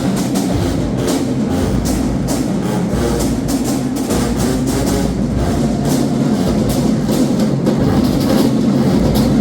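Marching band playing: brass over a steady drum beat.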